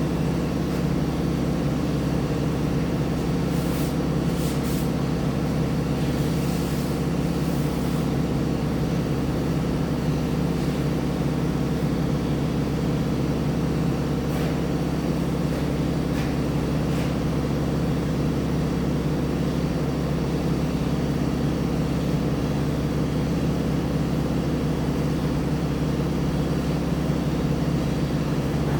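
Electric power sander running steadily with a constant motor hum, with a few brief faint hissy scuffs of the abrasive on the workpiece.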